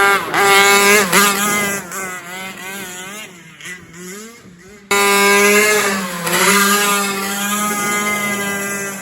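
Rovan Baja 5T's two-stroke gas engine revving, its pitch rising and falling with the throttle; it jumps back to a loud, high, steadier run about five seconds in and eases off near the end.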